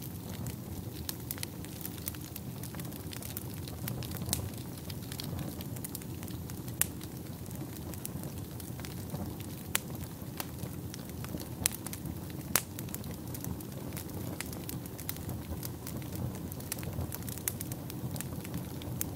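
Wood fire burning in a fireplace: a steady low rumble of flames with irregular crackles and sharper pops, a few louder snaps scattered through.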